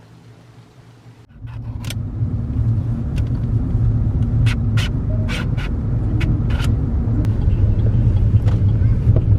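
Steady low rumble of a motor vehicle running, starting abruptly about a second in, with several sharp clicks over the middle few seconds.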